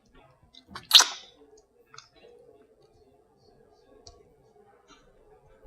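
A shellfish shell cracked open once, sharply, about a second in, followed by a few small clicks and squishy eating sounds from picking at the meat. A faint steady hum sits underneath.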